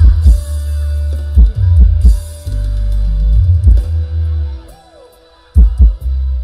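Loud bass-heavy music with kick drum and guitar played through an outdoor PA speaker cabinet, the deep bass notes strongest. The music drops out briefly partway through, then the drum hits come back.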